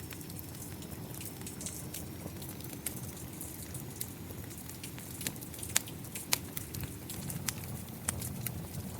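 Wood fire crackling with scattered sharp pops over a steady wash of rain; the two loudest pops come a little past the middle.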